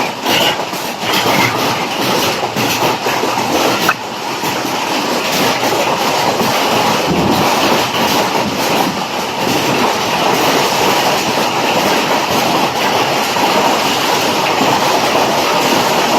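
Heavy hail falling with rain, a dense continuous clatter of hailstones striking hard surfaces, with many sharper individual impacts scattered through it.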